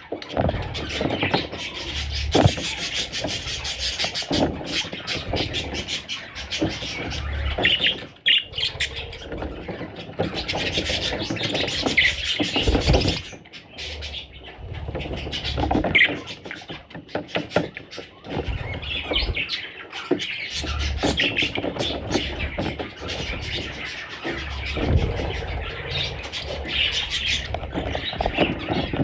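Budgerigars chattering and chirping continuously, with scattered short clicks.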